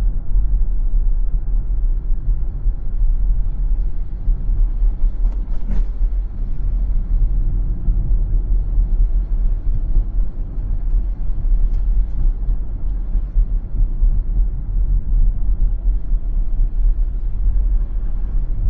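Steady low rumble of a car driving on the road, with one brief click about six seconds in.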